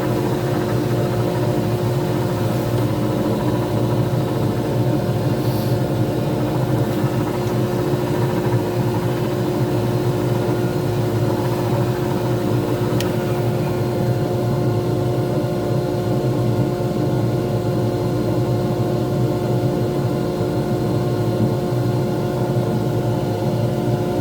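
Pen-turning lathe running steadily with a resin pen blank spinning, a constant motor hum with several steady tones. A single short tick about 13 seconds in.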